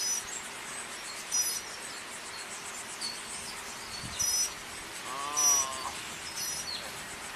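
Insects chirping in short high-pitched bursts that repeat every second or so, with a brief wavering tone about five seconds in.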